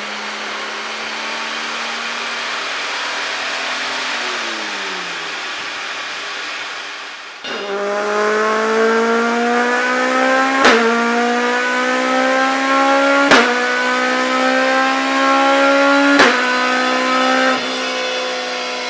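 Jaguar Mk2 3.8-litre straight-six on a rolling-road dyno, running steadily at first. About seven and a half seconds in it goes to full load and gets louder, its pitch climbing slowly through a power run, with three sharp cracks along the way. It eases off near the end.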